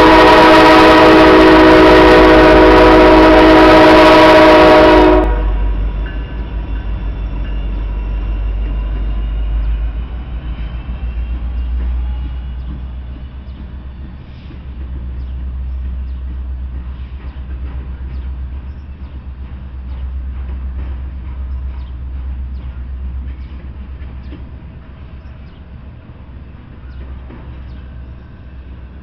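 Norfolk Southern diesel locomotive sounding its air horn, a loud chord held for about five seconds that cuts off sharply. Then the low rumble of the freight train and its intermodal container cars rolling past, wheels clicking over the rail joints, slowly fading.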